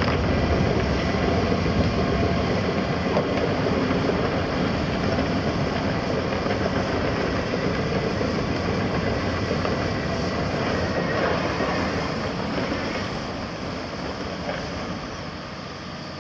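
Hydraulic hammer on a CAT 330F excavator hammering rapidly over the running Cat C7.1 diesel engine, getting quieter over the last few seconds.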